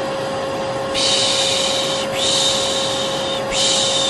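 Vacuum cleaner running steadily with a constant humming whine, overlaid with a person's long rhythmic 'shhh' shushing sounds, the soothing sound used to settle babies. Each shush lasts about a second; the first starts about a second in and two more follow back to back.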